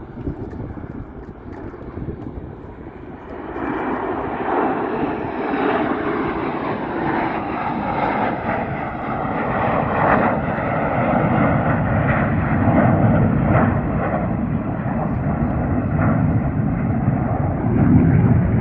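Airplane engine noise from an aircraft flying past at an air show. It swells sharply about three and a half seconds in and stays loud, a broad rushing sound with no clear pitch.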